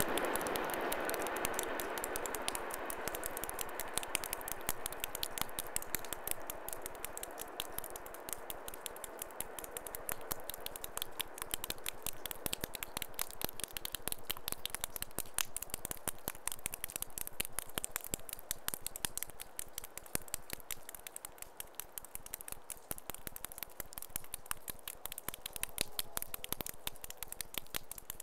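Sound of a passing train fading away over the first several seconds, leaving a dense, irregular crackle of small clicks.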